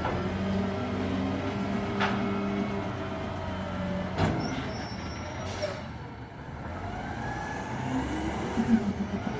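Front-loading garbage truck running with a steady engine note and four sharp knocks spread through the first half. Near the end the engine pitch rises and falls.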